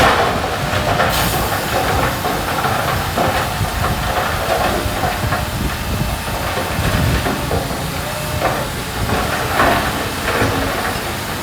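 Heavy diesel earthmoving machinery working, a steady rumble with a continuous hiss over it.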